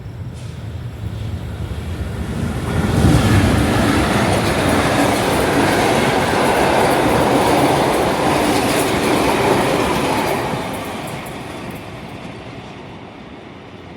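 A passenger train passing close by: wheel and rail noise swells over the first three seconds, stays loud for several seconds, then fades away from about ten seconds in.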